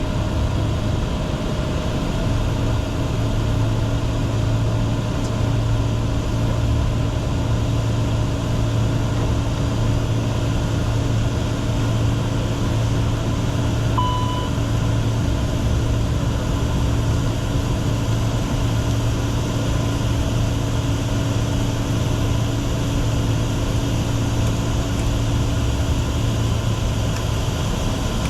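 Steady cockpit noise of a Bombardier Challenger 604 business jet in flight: the hum of its twin turbofan engines and the rush of air, unchanging throughout. A short electronic beep sounds once about halfway through.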